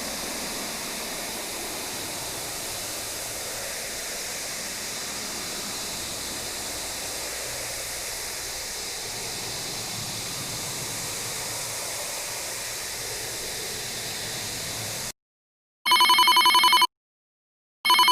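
A steady hiss of noise that cuts off abruptly, then, after a brief silence, two bursts of a telephone ringtone about a second each, a pulsing ring with one strong tone.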